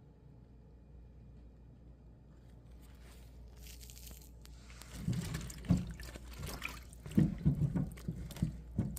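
Water splashing and dribbling, as if produce or its soak water is being handled in a bowl or sink. The sound starts faint and becomes irregular, louder splashes over the last few seconds.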